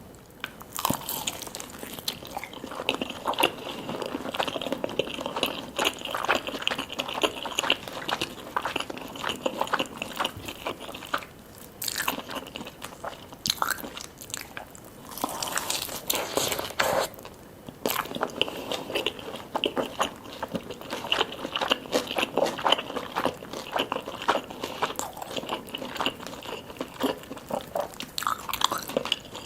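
Close-miked eating: crunchy fried chicken being bitten and chewed, with dense irregular crackling and crunching and a few short pauses.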